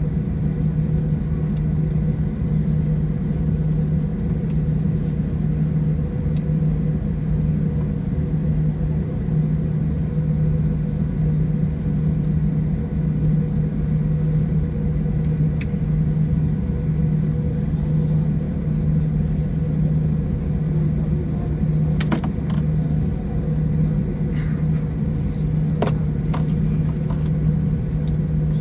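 Airbus A321 cabin noise while taxiing after landing: a steady low rumble with a constant hum from the engines and air conditioning, with a few faint clicks near the end.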